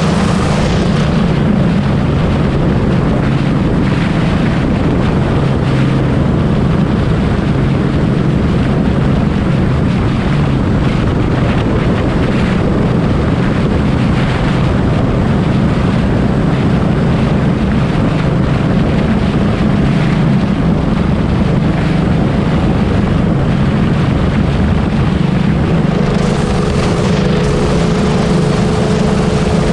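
Honda Wave 125 motorcycle running steadily at riding speed, its engine sound mixed with loud wind rushing over the microphone.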